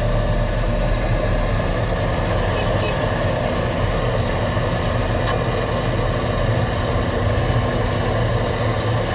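A Volvo L70H wheel loader with a snow-blower attachment running steadily, heard from inside its cab: a constant low engine drone under a dense, even noise.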